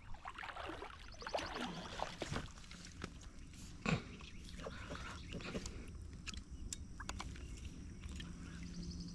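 Faint scattered clicks and knocks of fishing gear and kayak handling, with short runs of rapid fine ticking and one louder knock about four seconds in, while a hooked fish is fought against a snag on a log.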